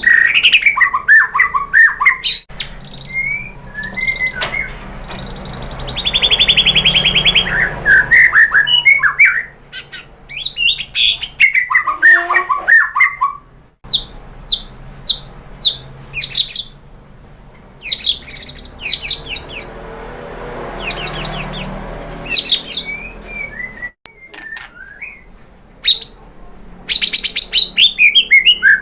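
White-rumped shama (murai batu) singing a varied, loud song: whistled notes, rapid trills and runs of quick downward-sweeping notes, in phrases broken by short pauses.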